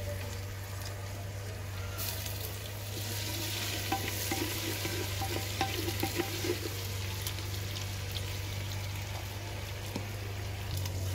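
Ginger-garlic paste sizzling in hot oil and golden-brown onions in a clay handi, the sizzle swelling about two seconds in, with a wooden spoon scraping and knocking against the clay pot as it is stirred.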